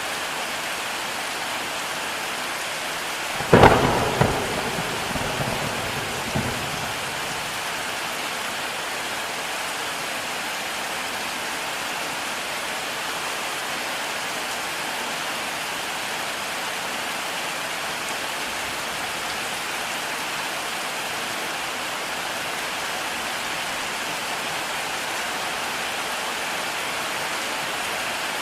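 Heavy rain falling steadily. A sudden clap of thunder about three and a half seconds in rolls on in rumbles for about three seconds before the rain is left alone.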